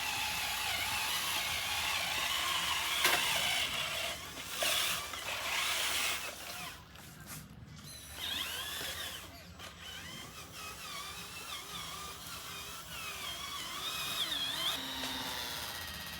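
Small electric motors and gearboxes of radio-controlled construction models whirring, their whine wavering up and down in pitch as the controls are worked.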